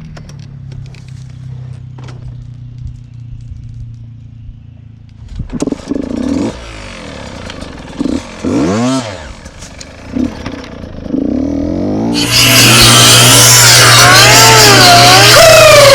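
Two-stroke Beta 125 RR dirt bike engine running steadily at low revs, then revved up and down in a few short blips. About twelve seconds in, loud electronic music starts and covers it.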